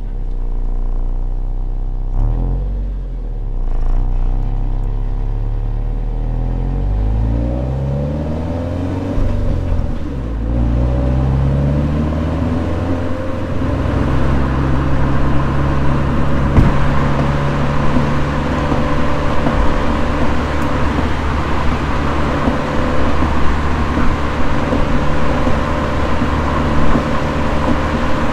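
Toyota 86's 2.0-litre flat-four engine pulling through the gears of its manual gearbox, its pitch rising and dropping back at each shift, then running at a steady engine speed with tyre and road noise growing.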